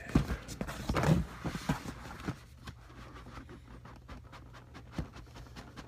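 Collectible figure box packaging being handled and opened: a few knocks and rustles in the first two seconds, then a quick run of small clicks and crinkles.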